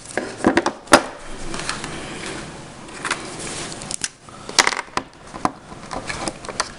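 Irregular clicks and light knocks from handling small hardware and tools at a workbench, with a sharp click about a second in and a cluster of clicks near the middle.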